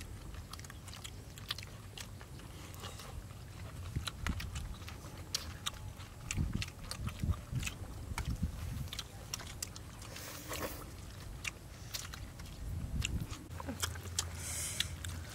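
People chewing and biting food, with many small sharp clicks and occasional crunches.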